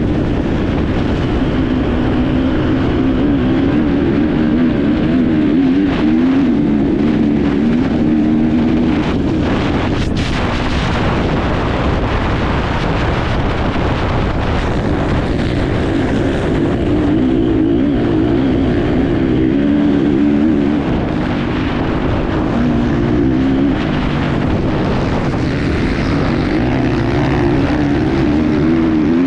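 Enduro motorcycle engine running hard, its pitch rising and falling again and again with the throttle, heard close up from an onboard camera over a constant rush of wind and rough-ground noise. A sharp knock comes about ten seconds in.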